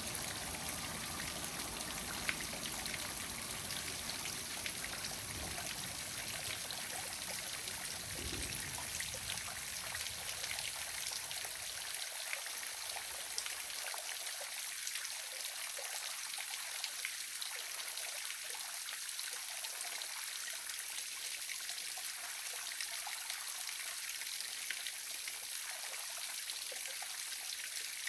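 Waterfall running steadily: an even hiss of falling and splashing water, with a low rumble beneath it that drops away about twelve seconds in.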